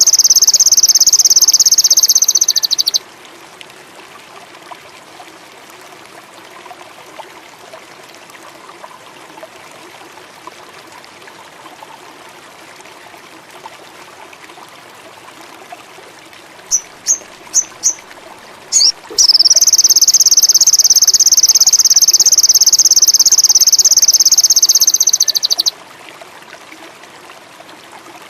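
Sogon indigo bird song: a loud, high, rapid buzzing trill that stops about three seconds in, then after a quiet stretch four short high chirps lead into a second long trill of about six seconds. A faint trickling water and insect background runs beneath.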